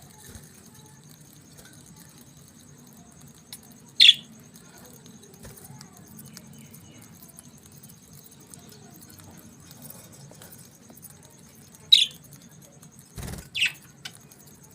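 Budgerigar giving three short, loud chirps that drop in pitch: one about four seconds in and two close together near the end, over a steady low hum. A brief thump comes just before the last chirp.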